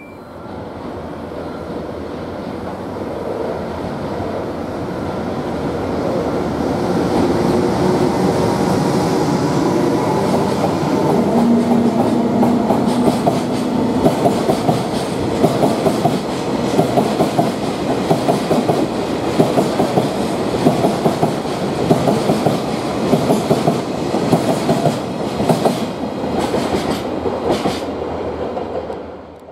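Freight train passing: an EH200 electric locomotive followed by a long string of oil tank wagons. The sound builds for the first several seconds with a few steady tones. It then settles into a rhythmic clickety-clack of wagon wheels over rail joints, the clicks sharpest in the second half.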